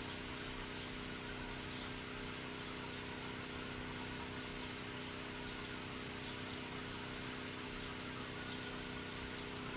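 Steady mechanical drone of a running motor-driven machine, which the owner takes for a compressor or a generator: an even hum with a held low tone over a faint hiss, unchanging throughout.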